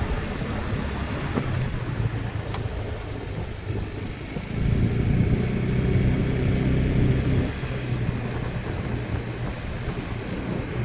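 A motor running with a steady low hum, louder for about three seconds midway.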